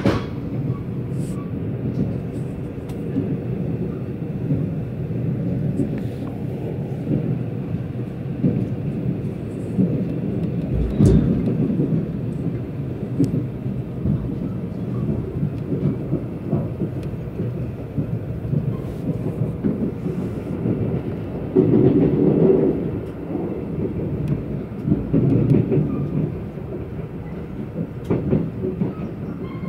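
Korail Mugunghwa passenger train heard from inside the carriage while moving: a steady low rumble of wheels on rails, scattered with clacks and knocks. A heavier thump comes about eleven seconds in, and the rumble grows louder for a few seconds around twenty-two seconds.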